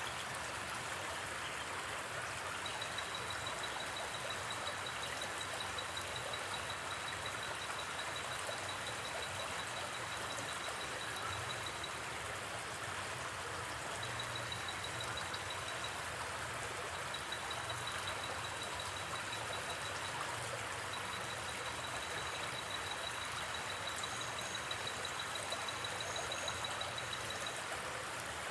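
Steady rush of a gently flowing river. Over it a high, fast-pulsing trill comes and goes in long runs with short gaps.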